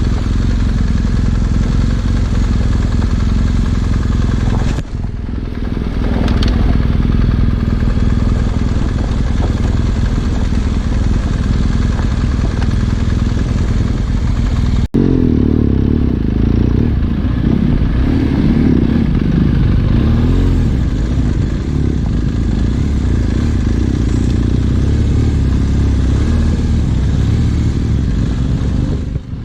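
Trail motorcycle engine running steadily while riding off-road, with a heavy low rumble. The sound breaks off and changes abruptly about five and fifteen seconds in, with the low rumble heavier after the second break.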